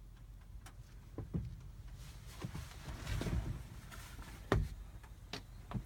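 Scattered light knocks and clicks with some rustling, from someone moving about and handling things inside a truck cab. The sharpest knock comes about two-thirds of the way through.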